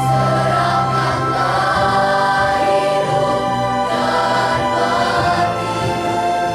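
Children's choir singing held notes over a string orchestra accompaniment.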